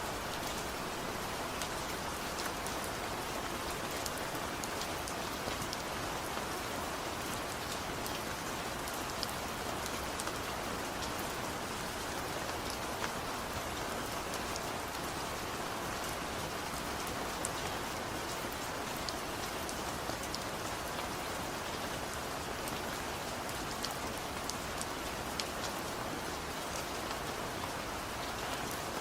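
Steady, gentle rain falling on a surface, an even patter with scattered individual drop ticks and no thunder.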